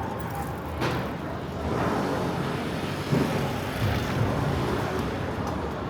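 Street traffic: a motor vehicle passing close by, its engine noise swelling through the middle, with a brief hiss about a second in.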